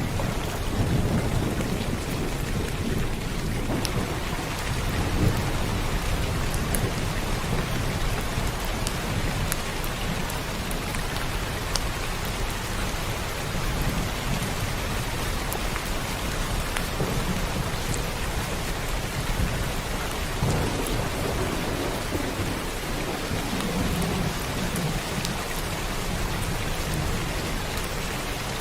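Steady rain falling, with thunder rumbling low underneath in slow swells that rise and fade several times. A few sharp drop ticks stand out over the rain.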